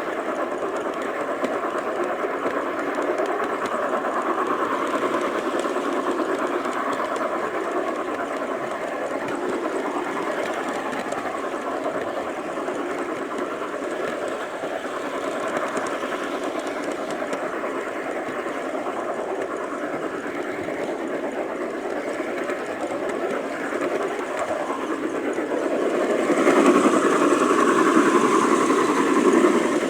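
G-scale model train running on its garden track, heard from the train itself: a steady rumble and rattle of wheels on the rails. It grows louder for about three seconds near the end.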